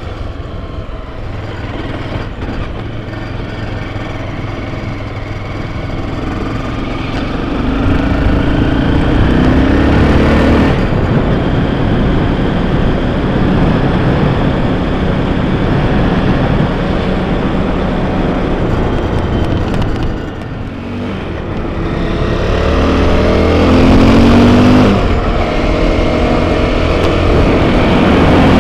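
Enduro motorcycle engine under way, revving up under acceleration and dropping off sharply when the throttle is closed, once about a third of the way in and again near the end.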